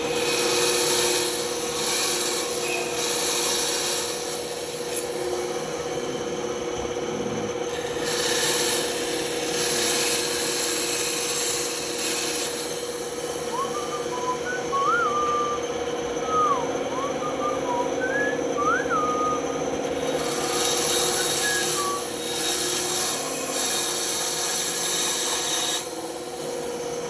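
Band saw running with a steady hum, its blade cutting through wood in three passes of about four seconds each, with quieter lulls between them.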